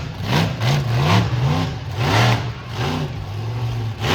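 Monster truck engine revving hard in quick repeated blips, about two a second, its pitch rising and falling with each throttle stab.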